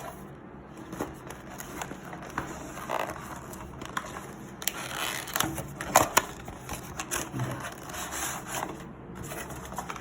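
Cardboard product box being opened and its contents taken out: scattered scrapes, crackles and clicks of card and packaging handled by hand, with two sharp snaps about six seconds in.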